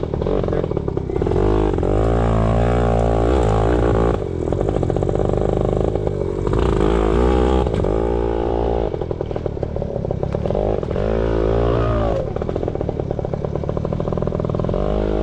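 Yamaha PW80 pit bike's small two-stroke single-cylinder engine being ridden, revving up and easing off several times, its pitch climbing and falling with each throttle opening.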